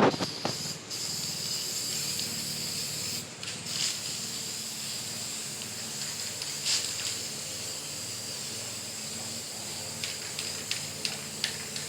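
Spray paint hissing steadily out of a nozzle, easing briefly about three seconds in, with a few light clicks near the end.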